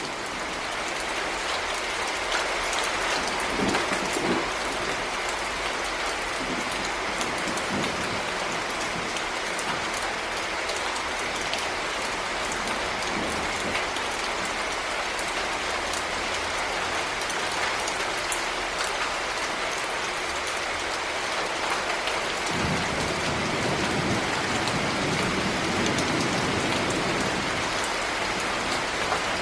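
Heavy rain falling steadily in a dense, even hiss. Low rumbles of thunder swell in briefly a few seconds in and again for several seconds past the middle.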